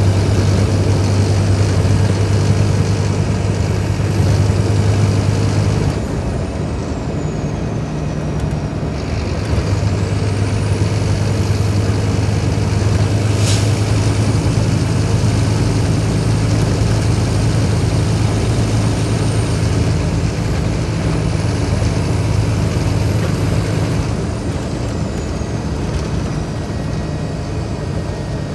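Scania K310IB bus's diesel engine running steadily under load. It eases off about six seconds in, pulls strongly again a few seconds later, and eases off once more near the end, while a faint high whine rises and later falls. There is one sharp click near the middle.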